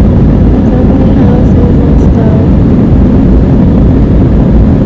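Airbus A320 cabin noise on takeoff: a loud, steady rumble of the jet engines and rushing air, with faint wavering tones above it.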